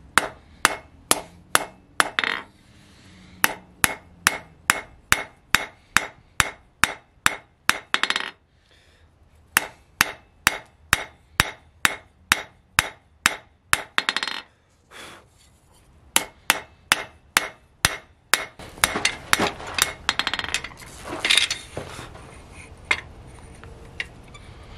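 Hand hammer striking spring steel on an anvil in a steady rhythm, about three ringing metallic blows a second, with two brief pauses; near the end the blows give way to irregular clanking and scraping.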